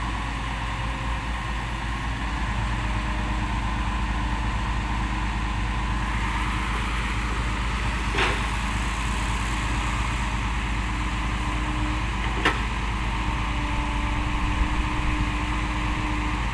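Six-wheel dump truck's diesel engine running loud and steady under load as it climbs out of the pit, with two short sharp knocks, about eight and twelve seconds in.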